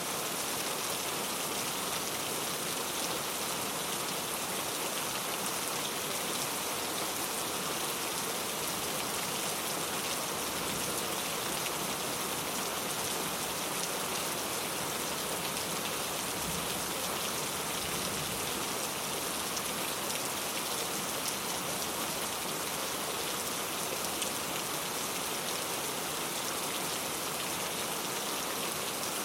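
Steady rain falling, an even patter of drops that keeps up without a break.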